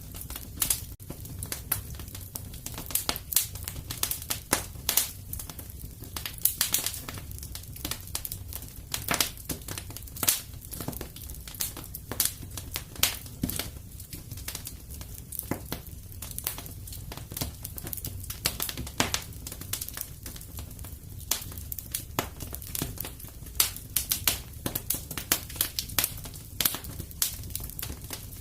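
Wood fire crackling and popping in a fireplace: irregular sharp snaps of varied loudness over a steady low rumble of the flames.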